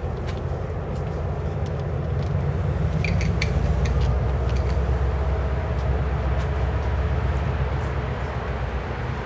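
Distant diesel-hauled passenger train heard across the valley: a steady low rumble of the locomotive and rolling coaches that swells a little through the middle, with a few faint clicks.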